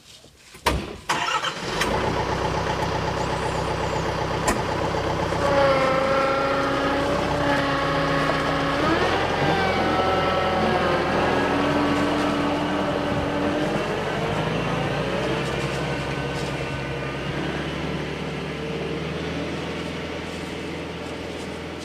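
Tractor engine cranking and starting about two seconds in, then running steadily. It revs briefly partway through, and the sound slowly fades toward the end.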